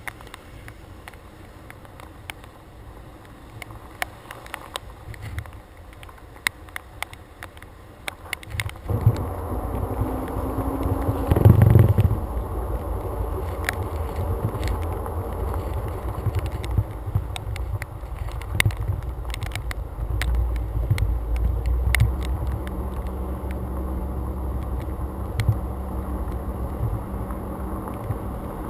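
Many sharp ticks of raindrops hitting a camera mounted on a truck hood. About nine seconds in, a steady low rumble sets in much louder, surges briefly a few seconds later, then holds.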